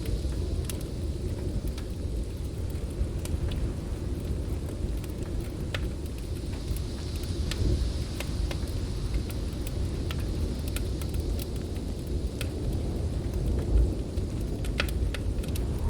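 Heavy snowstorm wind blowing steadily with a deep rumble, over the irregular sharp crackles and pops of a wood fire in a fireplace.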